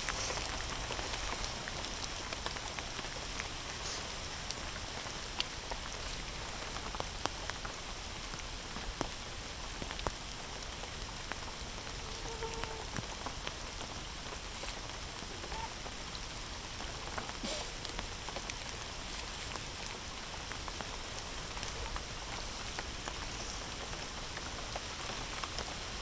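Steady heavy rain falling, with scattered sharp taps of drops striking nearby surfaces.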